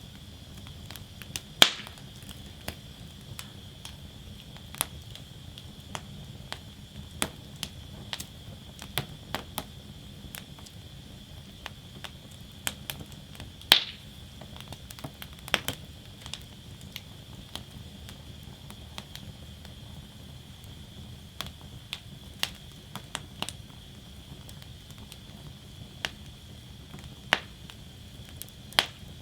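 Wood fire burning in a fire basket, crackling with sharp, irregular pops over a steady low rumble; the two loudest pops come about 2 and 14 seconds in.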